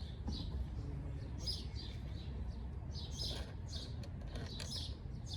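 Birds chirping: short, high chirps repeated several times a second, over a steady low background rumble.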